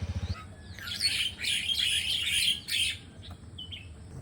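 Bali starlings (Bali mynas) calling: a dense run of chirps and harsh chatter lasting about two seconds, then a single short call near the end.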